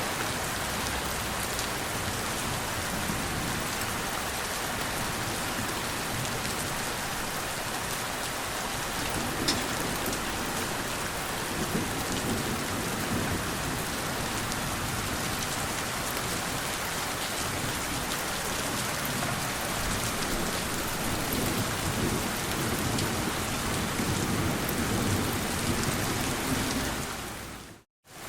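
Steady rain falling, with low rolling thunder rumbling in the background and swelling twice. The sound fades out and cuts to silence for a moment near the end.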